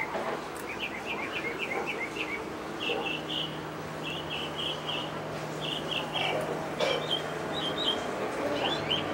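Small birds chirping in quick runs of short, high notes, with a steady low hum underneath.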